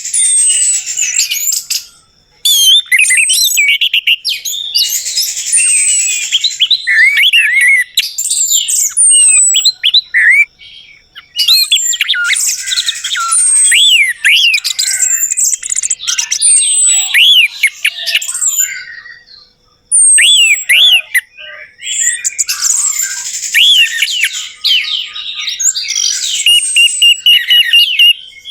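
Orange-headed thrush singing loudly, long runs of rapid, varied whistles and chattering notes with short pauses between phrases.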